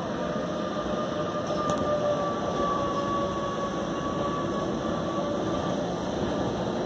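Gornergrat Railway electric rack-railway train rolling slowly into the station. A steady rumble runs under a faint two-note whine, which fades about five seconds in.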